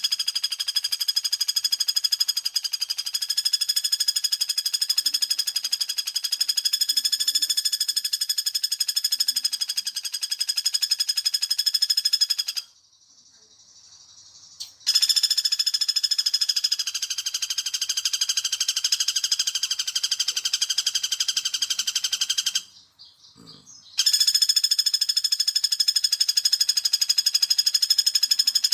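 Recorded lure call of the pelatuk bawang woodpecker played back: a fast, even rattling trill at a steady high pitch, given in three long runs that start and stop abruptly with short gaps between them.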